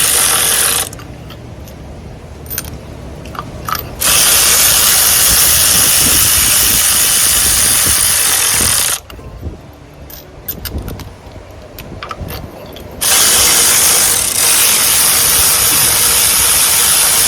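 Power tool running in long steady bursts of about four to five seconds each, with quieter clicks and handling noise between them, as spark plugs are run into an outboard engine.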